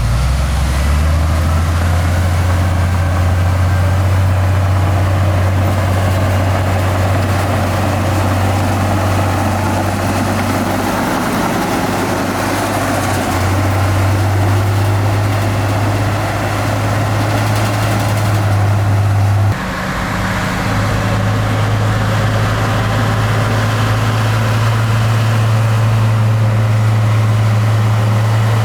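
Heavy diesel engine of road-building machinery running steadily with a deep drone. The pitch shifts a couple of times, and the sound breaks off abruptly about two-thirds of the way through before carrying on.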